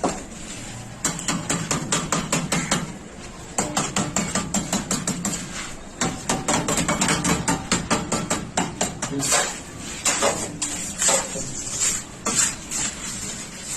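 Fast runs of light hammer taps, about six a second, broken by short pauses. About two-thirds of the way in the taps become slower and more spaced.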